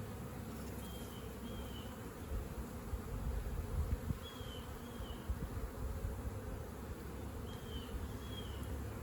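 Honeybees buzzing in a steady, dense hum. A bird calls over it in pairs of short falling chirps, three times about three seconds apart.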